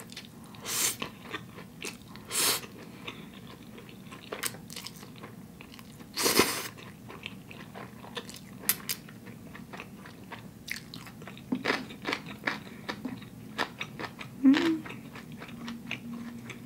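Close-up eating sounds of spicy instant noodles: wet chewing and mouth smacks, with a few louder slurps of noodles. A short closed-mouth hum comes near the end.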